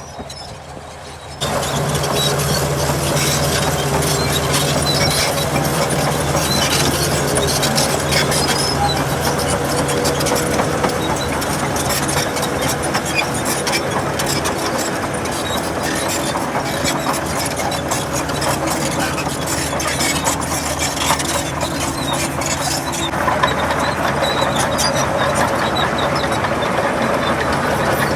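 Diesel engine of heavy earthmoving machinery running steadily under a dense clatter of clicks and rattles. The sound starts abruptly about a second in and changes character near the end.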